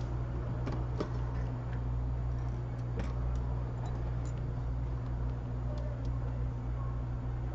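A steady low electrical hum, with a few faint light clicks about a second in and again around three seconds in.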